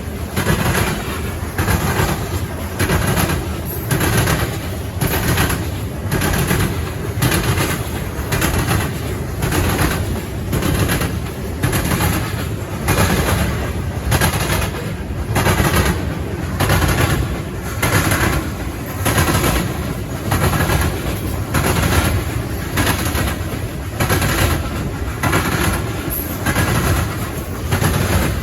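Freight train cars rolling past, their steel wheels clacking over the rail joints in a steady repeating rhythm that swells about every two seconds as each car goes by.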